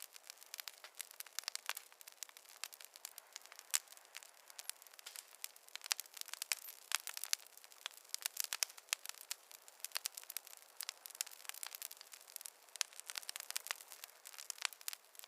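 Wood fire crackling in a fireplace: a steady, irregular stream of sharp pops and snaps over a faint hiss, with no low rumble.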